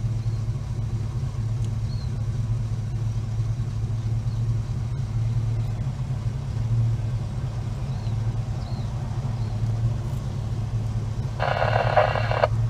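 Holden HK car engine running steadily at low speed with a constant low drone. Near the end a horn sounds for about a second.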